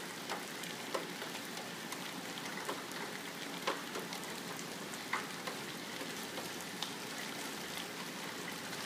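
Steady rain falling, an even hiss with scattered sharper drips or splashes.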